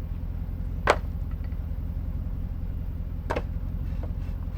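Truck engine running steadily during a winch recovery, with two sharp knocks, the louder one about a second in and another about three seconds in.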